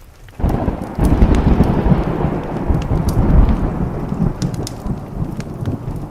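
A thunderclap breaks about half a second in, surges again a moment later, then rumbles on and slowly fades. Behind it are steady rain and the crackle of a wood fire.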